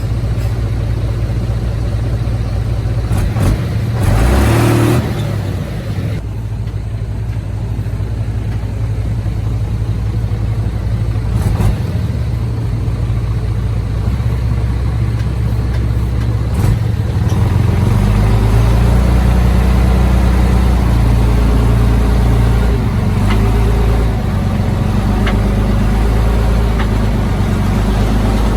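Heavy diesel earthmoving machinery running steadily, with a short burst of noise about four seconds in, then the engine working harder and louder from a little past halfway.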